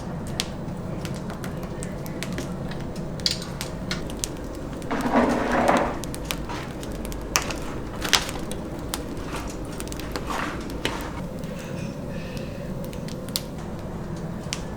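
Kitchen work: scattered sharp clicks and clatter over a steady low hum, with a louder rustling burst about five seconds in.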